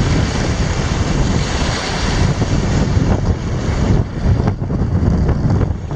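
Typhoon-strength wind buffeting the microphone in loud, gusty rushes that swell and ease every second or so.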